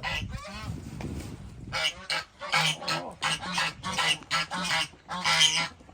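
Noisy calling from domestic waterfowl in a backyard flock: after a quieter start, a run of loud, short calls follows at about two a second from about two seconds in.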